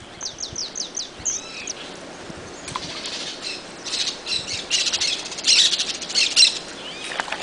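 Birds calling: a quick run of about six high, falling chirps, then, from about three seconds in, a string of harsh, raspy calls.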